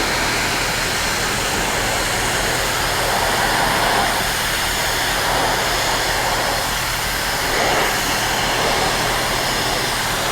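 Car-wash high-pressure rinse wand spraying water onto a motorcycle windshield: a steady hiss of the water jet, with a steady low hum underneath.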